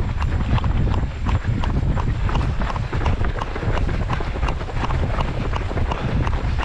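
A runner's footfalls on the road at about three strides a second, with wind buffeting the microphone.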